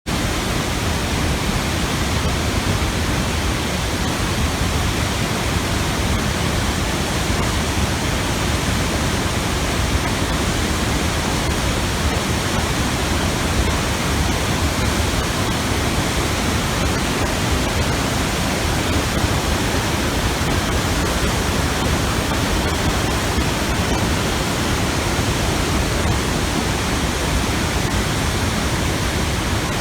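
Steady, unbroken rush of a 30-metre waterfall plunging into a pool, heavy in the low end.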